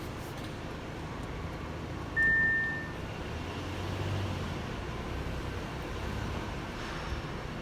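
Audi Q5 brakes giving one short, high, steady squeal about two seconds in, fading out within a second, over a steady low rumble of the car in motion.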